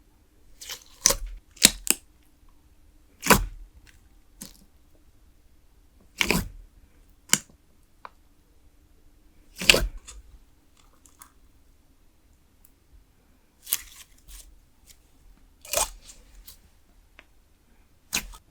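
Putty-style clear slime and its 8 oz container being handled, with the slime taken out of the container about ten seconds in: a dozen or so separate sharp clicks and crackles with quiet gaps between them.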